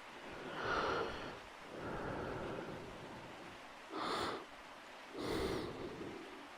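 Close-miked breathing: four slow, soft breaths in and out over a faint steady rain ambience.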